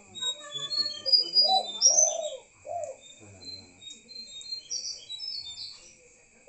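Spotted dove cooing, with a few low arched coos between about a second and a half and three seconds in, among many short high chirps from other birds.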